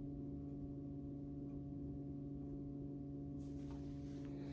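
Steady low electrical hum of a few fixed tones under quiet room tone, with a faint rustle starting about three and a half seconds in.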